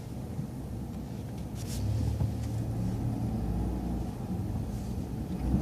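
Transit bus engine running with a low drone. It gets louder about two seconds in and eases off again near the end, with a short hiss just before it rises.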